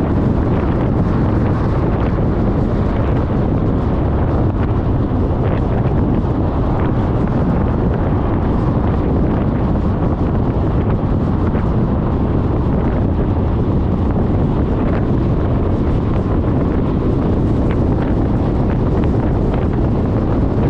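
Loud, steady wind rush buffeting the microphone of a camera on a scooter at riding speed, with no clear engine note above it.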